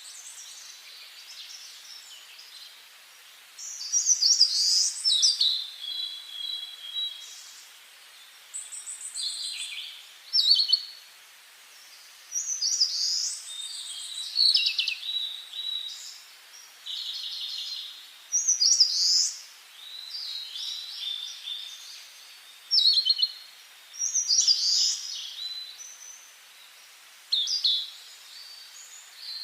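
Songbirds singing in a forest: short, high phrases of trills and falling whistles, one every two or three seconds, with quieter gaps between.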